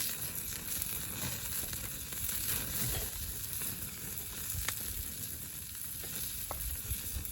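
Pacific saury sizzling as it grills over a campfire, a steady hiss with a few sharp pops and crackles scattered through it.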